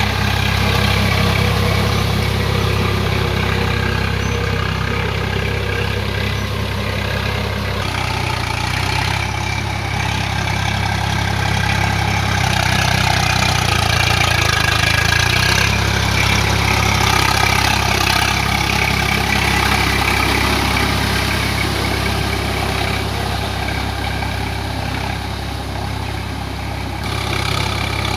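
Swaraj 744 FE tractor's three-cylinder diesel engine running steadily. Its note shifts slightly about eight seconds in and again around the middle.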